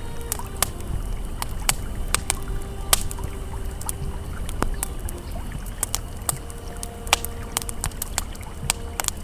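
Wood campfire crackling with frequent irregular sharp pops, over the steady low rush of a flowing river. Faint held tones of an ambient pad sit underneath.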